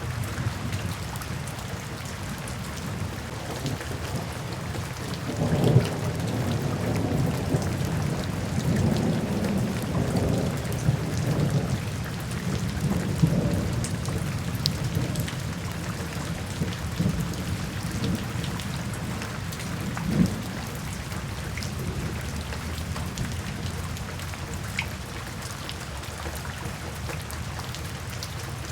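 Steady rainfall with a low, rolling rumble of thunder that swells about five seconds in and dies away over the next several seconds, and a brief further rumble about two-thirds of the way through.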